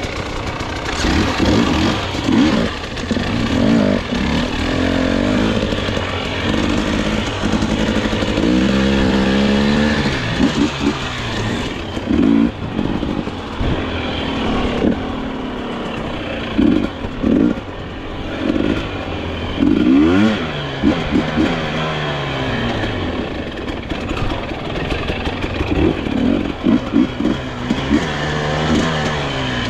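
Dirt bike engine revving hard in short repeated throttle bursts, with a few longer rising runs in pitch.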